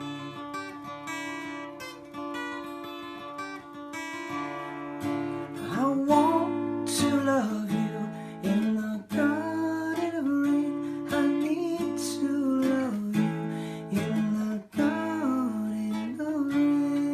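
A song played on acoustic guitar, picked and strummed, with a singing voice coming in over it about six seconds in.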